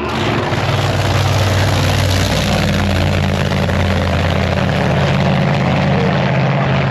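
Large engines running loudly and steadily, a deep droning hum with a wide roar over it.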